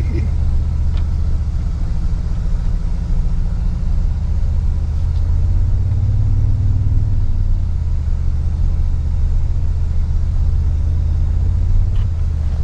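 Toyota Tundra pickup's engine and drivetrain heard from inside the cab, crawling along a trail in a steady low drone that rises briefly about halfway through as the throttle is opened, then eases off.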